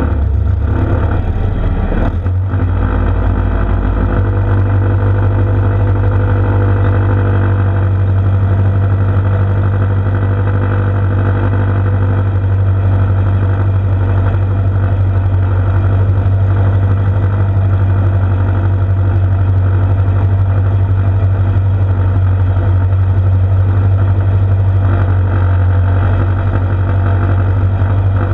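Farmall Super M tractor's four-cylinder engine running loud and steady, under load on a pulling run.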